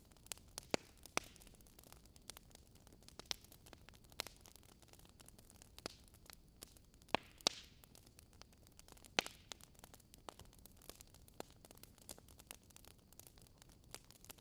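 Wood fire crackling faintly, with irregular sharp pops over a soft hiss; the loudest pops come about a second in, twice about seven seconds in, and about nine seconds in.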